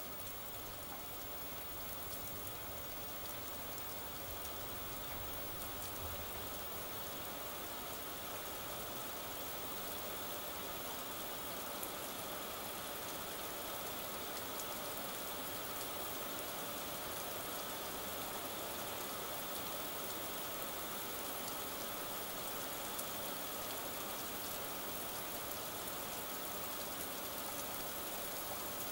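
Steady rain falling, an even hiss that grows a little louder over the first few seconds.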